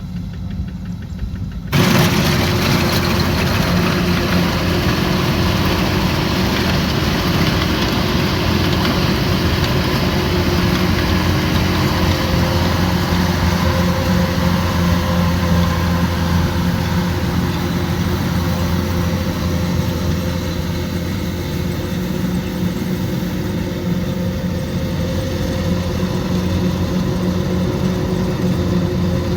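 Kubota combine harvester's diesel engine running steadily, a dense mechanical din with a low hum. About two seconds in the sound jumps suddenly louder and fuller, then holds steady.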